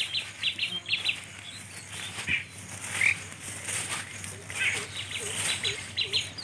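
Small birds chirping: quick runs of short, repeated notes at the start and again over the last two seconds, with a few single chirps in between.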